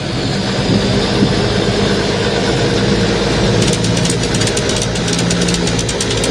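Diesel semi-truck engines running steadily at low revs. About three and a half seconds in, a fast rattling clatter joins the sound.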